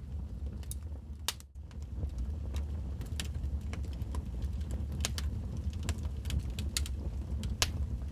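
Wood fire burning in a fireplace: a steady low rumble of flames with irregular sharp crackles and pops, one of the loudest near the end. About a second and a half in, the sound briefly dips almost to nothing.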